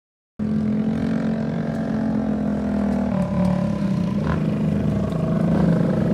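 Several small motorcycle engines running together in a steady drone with more than one pitch. It starts just after a brief cut to silence.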